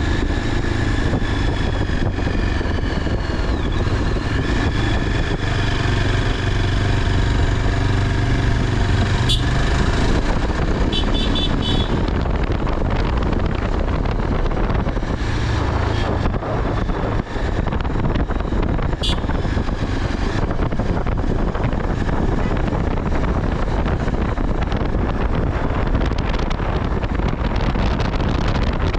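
Motorcycle running at steady road speed, its engine note clear for about the first ten seconds, after which an even rushing noise takes over; a couple of sharp clicks and a brief high beeping come through along the way.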